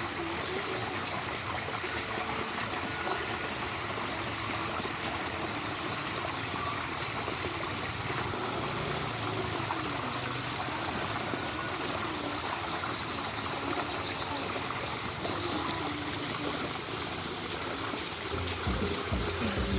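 Steady sound of flowing water, like a small stream.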